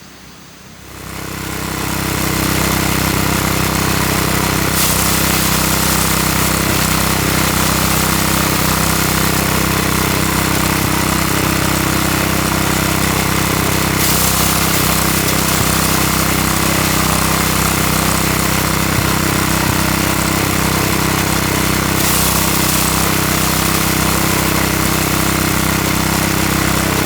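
Motor of a mini rice threshing machine starting up and then running steadily, with a few brief high hissing surges.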